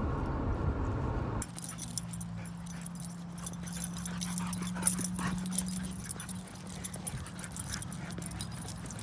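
A rumbling noise that cuts off abruptly about a second and a half in. Then a dog whimpering softly over a steady low hum, with light jingling and clicks.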